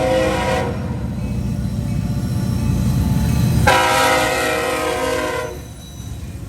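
Diesel locomotive air horn sounding two blasts, the first ending just under a second in and the second lasting nearly two seconds, over the low rumble of the locomotive's engine as the freight train passes.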